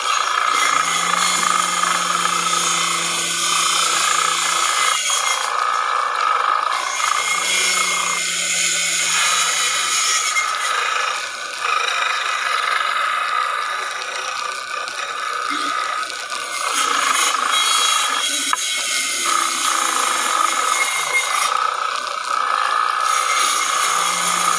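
Electric woodworking power tool running on wood, steady but with brief pauses several times.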